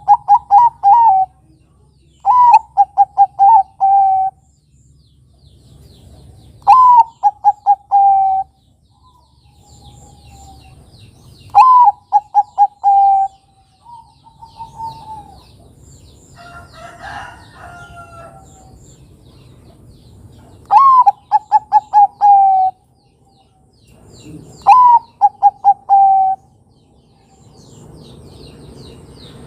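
Zebra dove (perkutut, Bangkok type) cooing. It sings about six phrases a few seconds apart, each a rising-and-falling opening note followed by a quick run of short notes and a longer closing note. Faint high chirps of small birds sound between the phrases.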